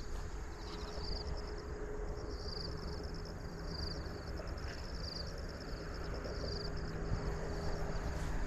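Insects chirping in short trills that repeat about once a second, over a low rumble and a faint steady hum.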